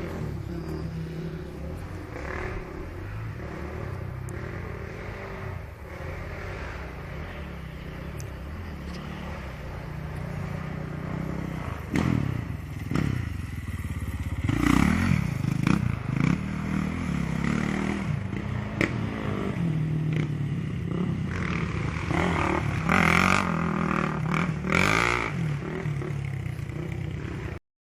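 Motocross motorcycle engines running and revving, louder from about halfway through, with revs rising and falling as bikes pass; the sound cuts off suddenly just before the end.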